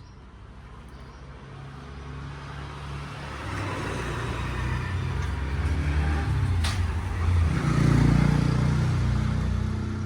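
A motor vehicle's engine getting steadily louder as it draws near, peaking near the end and then starting to fade, with one sharp click partway through.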